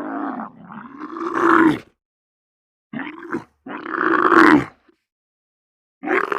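An animal roaring: two calls, each lasting about a second and a half.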